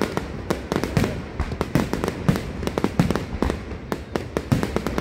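Fireworks display: a dense, irregular run of sharp bangs and crackles, several a second, with deeper booms among them.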